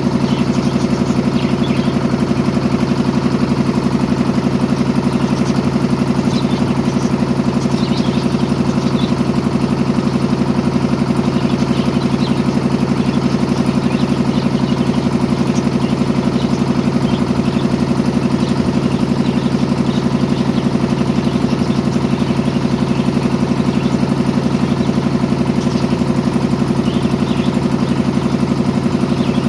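An engine idling steadily, with a fast even pulse that never changes speed.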